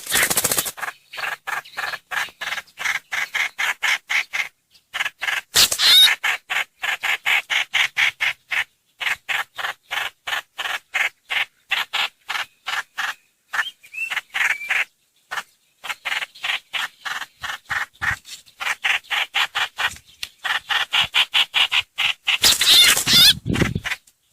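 Black-throated laughingthrush song: long runs of quick repeated notes, several a second, broken by brief pauses. There are louder, harsher outbursts at the start and near the end. It is a lure recording used to call the bird in.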